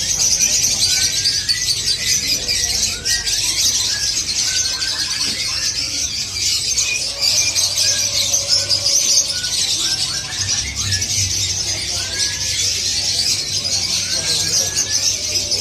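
Many caged songbirds, canaries among them, chirping and singing at once: a dense, continuous high twitter with short sliding chirps repeating throughout.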